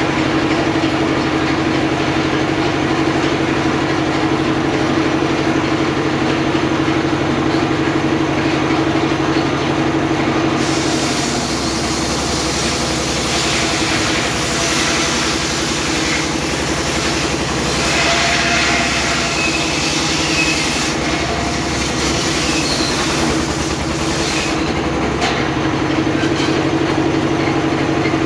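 Homemade circular saw running with a steady drone. About ten seconds in, the blade bites into teak timber and a loud, high rushing cutting noise joins the drone, dipping briefly a couple of times as the cut goes on.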